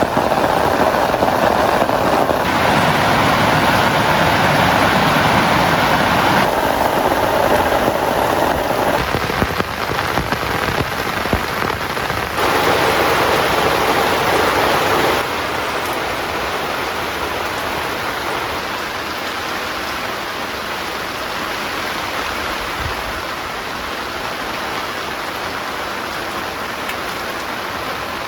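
Heavy rain falling steadily, with abrupt shifts in loudness and tone several times in the first fifteen seconds before it settles somewhat quieter.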